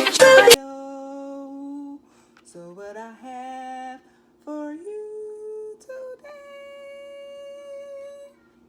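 A woman singing slow, long-held notes with upward slides between them and short breaks. A loud music track cuts off about half a second in.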